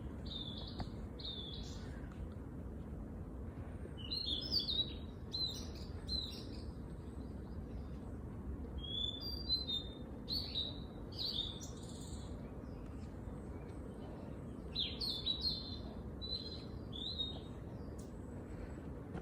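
Small songbirds singing short, quick chirping phrases in clusters every few seconds. Beneath them runs a steady low background rumble.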